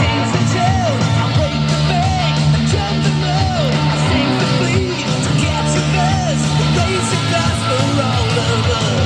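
A rock song with guitar and singing, played back from a cassette tape on a Sony YP-EW10 Walkman cassette player.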